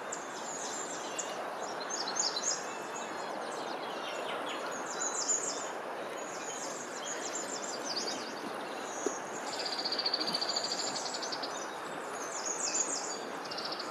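Many small songbirds chirping and twittering over a steady rushing background noise, with a buzzy, rapidly pulsed trill about ten seconds in.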